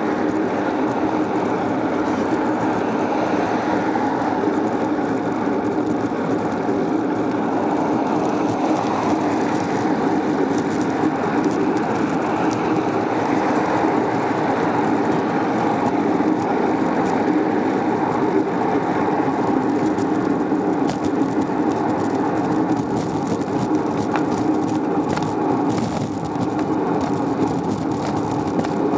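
Steady running noise of a bicycle on the move: tyre and road rumble mixed with wind on the microphone, unbroken throughout.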